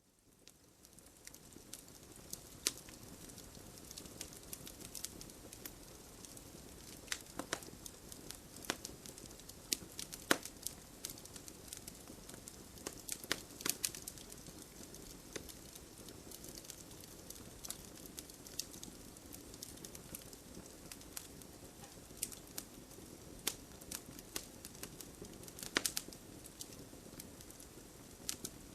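Wood campfire crackling: irregular sharp pops and snaps over a steady low rush of burning. The fire fades in from silence over the first second or two.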